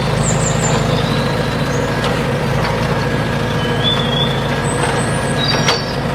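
A large vehicle engine running steadily at a constant speed, with a few high bird chirps over it.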